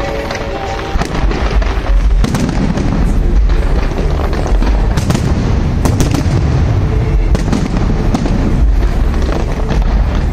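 Fireworks display: a dense run of booming bursts and crackling, one on top of another.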